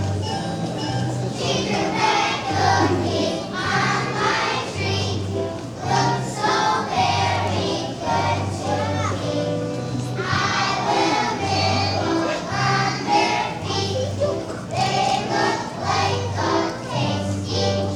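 A children's choir singing a song in unison over steady instrumental accompaniment with a regular bass line.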